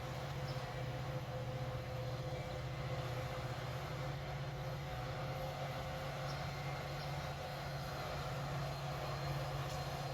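Steady low engine drone with a constant hum, running evenly throughout.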